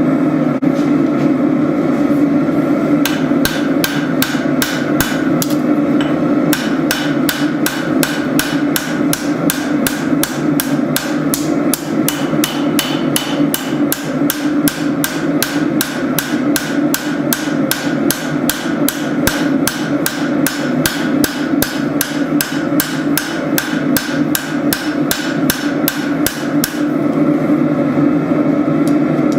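Hand hammer striking hot spring steel on an anvil, forging a tanto blade in a steady run of blows, about three a second, starting about three seconds in and stopping near the end. A steady low drone runs underneath.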